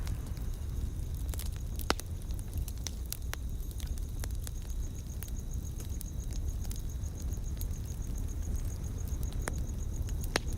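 Wood fire crackling: irregular sharp pops and snaps over a steady low rumble, one pop louder about two seconds in. A high, evenly pulsing chirp at about four pulses a second comes in about four seconds in.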